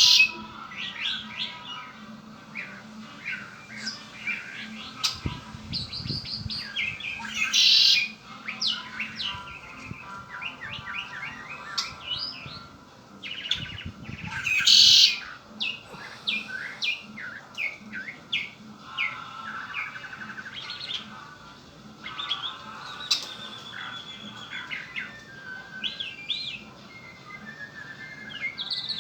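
Pet red-winged blackbird calling and singing: a running series of short high chirps, with two louder, longer song phrases about eight and fifteen seconds in.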